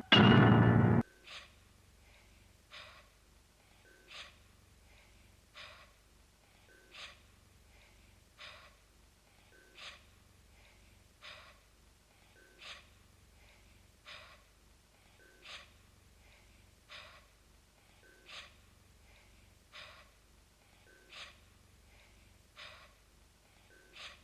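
Cartoon cat's heavy, steady breathing, a faint breathy huff about every one and a half seconds, after music cuts off suddenly about a second in.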